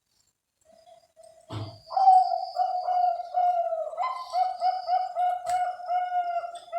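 Zebra dove (perkutut, Bangkok type) singing its cooing song. After a thump, a long run of quick, evenly repeated coo notes, about three a second, starts about two seconds in.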